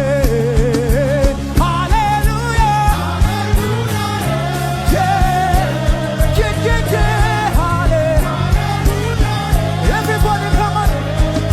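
Upbeat African gospel praise music: a wavering sung melody over bass and a steady drum beat.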